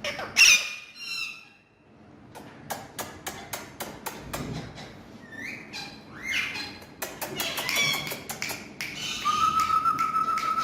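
A parrot squawking and chattering in short calls that glide in pitch, with a scatter of sharp clicks between them. Near the end comes one long, steady whistle.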